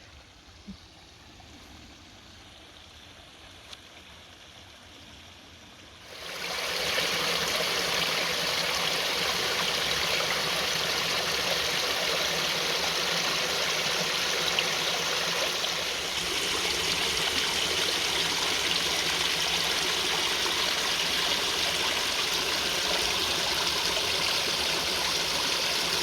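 Small waterfall rushing steadily. It is faint for the first six seconds, then abruptly becomes much louder about six seconds in.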